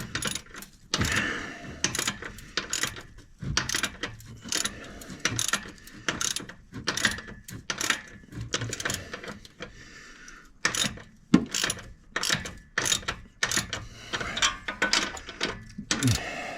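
Ratchet wrench clicking in short, uneven runs as the nuts of an exhaust muffler clamp are tightened, with a lull about ten seconds in.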